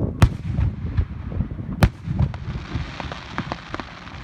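Aerial fireworks bursting: two sharp bangs, one just after the start and one a little under two seconds in, among many smaller pops. Crackler shells fizz and crackle through the middle and late part.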